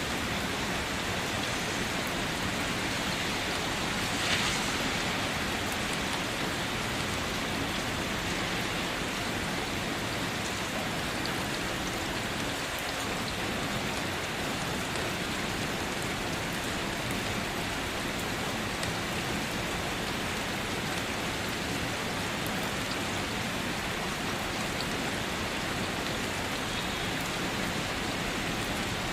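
Steady rainfall, an even hiss of drops on surfaces. About four seconds in there is one brief, louder tap.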